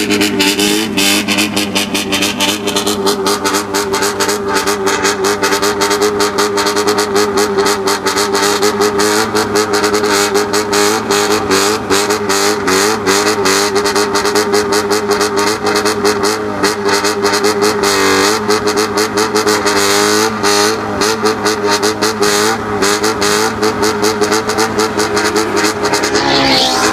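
Honda CB250T Hawk's parallel-twin engine revved through a new Nakano aftermarket muffler in a rhythmic bosozoku 'call', its pitch rising and falling continuously with the throttle. There is a sharp rising rev near the end.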